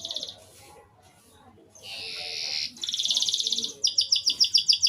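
Domestic canary singing in short broken phrases. After a brief pause comes a buzzy note, then a fast even trill, then a run of louder, slower repeated chirps near the end.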